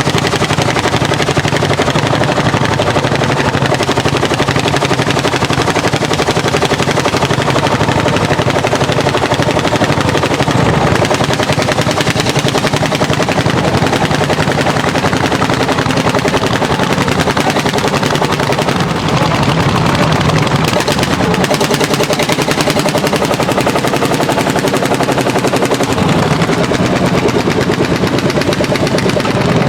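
Landini L55 hot-bulb single-cylinder two-stroke tractor engine working hard under load while pulling a plough, its exhaust giving a loud, fast, steady beat.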